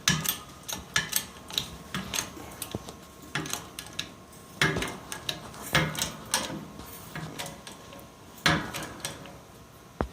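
Irregular clanks, knocks and rattles of steel parts being handled around a shop press. There are about a dozen sharp knocks, and the loudest come right at the start and at about five and eight and a half seconds in.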